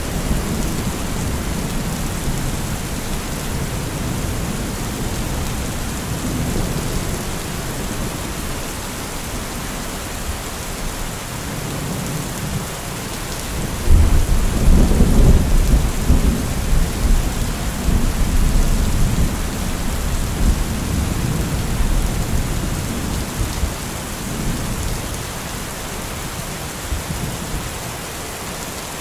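Heavy rain falling steadily under low, rolling thunder. About halfway through, a loud thunderclap breaks in suddenly and rumbles for several seconds before fading back into the rain.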